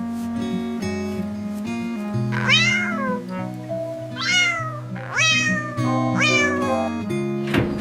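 A cat meowing four times over light background music. Each meow rises and then falls in pitch; the last three come in quicker succession.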